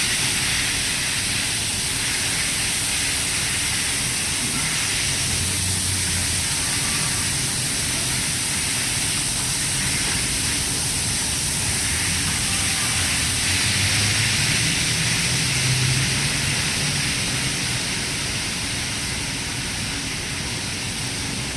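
WashWorld Razor touchless car wash spraying high-pressure water over a vehicle, a steady loud hiss of spray with a faint low hum from the machine underneath.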